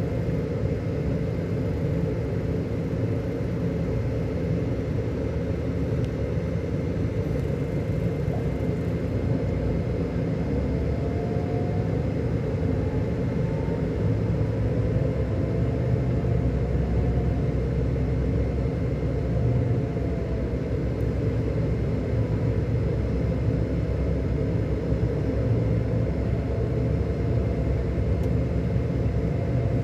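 Scania K400 Euro 5 coach's six-cylinder diesel engine running steadily under way: a continuous low rumble with faint slow rising and falling whines.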